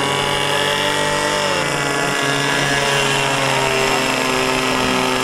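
RC airboat's in-line engine driving its air propeller. It runs steadily, drops in pitch about one and a half seconds in as the throttle comes back, then holds at the lower speed.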